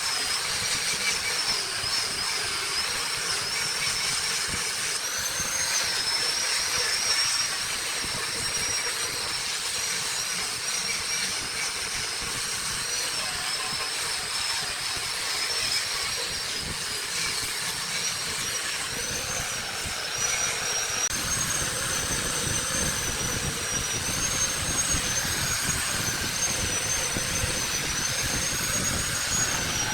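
Wood lathe running, with a high whine that wavers in pitch over a steady hiss; about two-thirds of the way through a lower rumble joins in.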